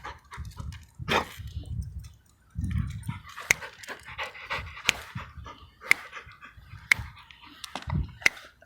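A pit bull panting close by, with sharp clicks about once a second through the second half and a low rumble underneath.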